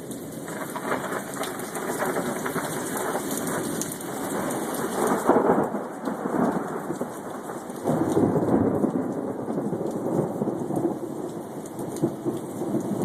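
Thunderstorm: rain falling steadily with rumbling thunder, swelling in loudness about half a second in, again around five seconds and again around eight seconds.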